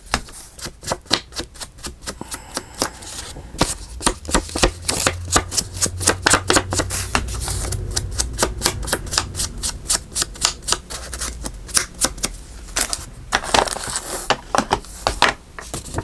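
Rapid tapping of an inking tool dabbed around the edges of a paper journaling card, with sharp taps several times a second. A low hum runs under the taps for several seconds in the middle.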